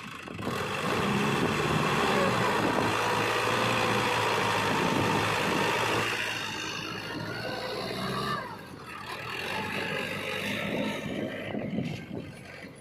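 Diesel engine of heavy earthmoving machinery running hard under load, loudest for the first six seconds, then easing off and building again later.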